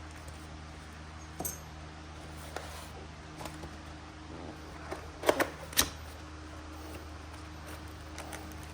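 Steady low hum with a few light clicks and knocks from small parts being handled, the loudest two coming close together about five to six seconds in.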